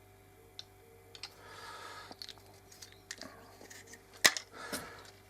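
Small clicks and rustles of hands handling and pressing a glued scrap-made roof cap into shape, with one sharp, loud click a little past four seconds in.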